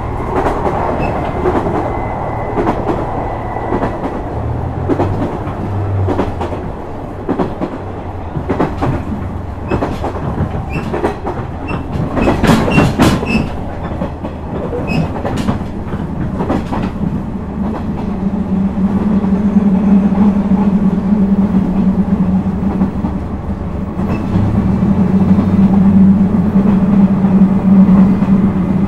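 Running sound inside a KiHa 126 series diesel railcar: the wheels click over rail joints above a steady rumble of the wheels and the diesel engine. The clicks come thick and fast about twelve seconds in. From about eighteen seconds a louder, steady low drone joins in and holds.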